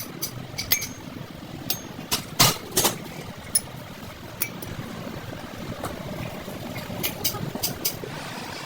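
Scattered sharp metallic clinks and knocks of tools on metal parts over a steady mechanical hum, the loudest strikes about two and a half seconds in.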